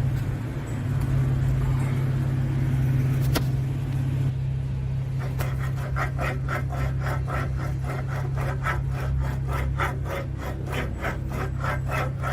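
A steady low hum, then from about five seconds in a regular rasping, scraping stroke repeated about three times a second.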